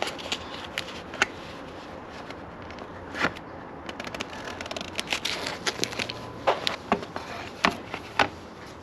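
Scattered light clicks, taps and scrapes of hands handling a plastic motorcycle side cover and tape, with a few sharper knocks in the second half.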